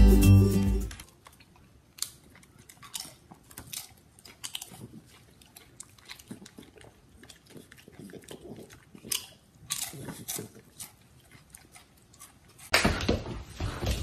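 Music stops about a second in, then quiet, irregular crunching of a crunchy snack being chewed. A loud rush of noise comes in near the end.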